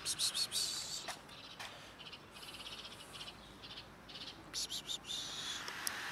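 Small birds chirping, with a fast high trill in the middle, over short close clicks and rustles.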